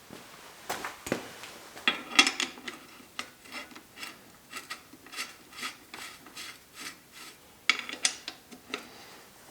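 Repeated hand rubbing or scraping strokes, about two or three a second, with a few sharper knocks near the start and near the end.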